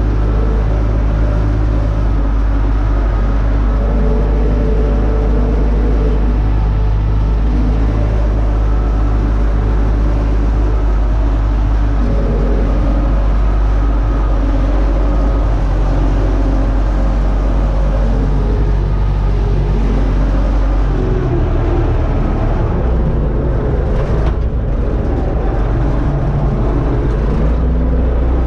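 Universal U650 tractor's four-cylinder diesel engine running steadily while pulling a disc harrow. Its low note changes and turns less even about three-quarters of the way through.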